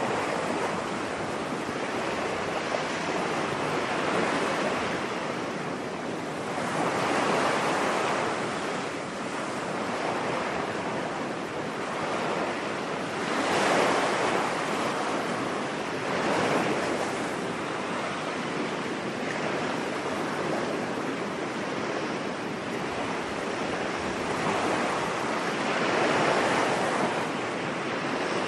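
Ocean surf breaking on a beach: a steady wash of noise that swells and recedes as each wave comes in, every few seconds.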